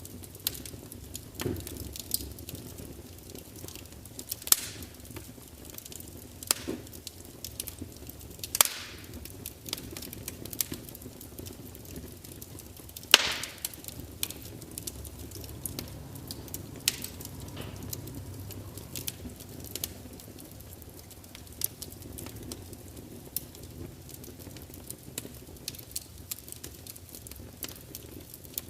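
Wood fire burning in a large open fireplace: irregular sharp crackles and pops of burning logs over a low steady rumble of the flames, with one loud pop about halfway through.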